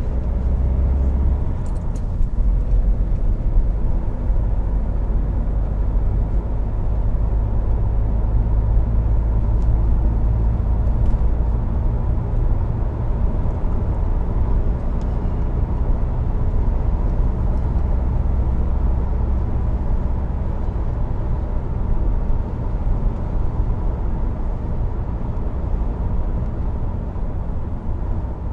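Inside a BMW E60 5 Series cabin while driving: a steady low rumble of engine and road noise, with no dash creak to be heard.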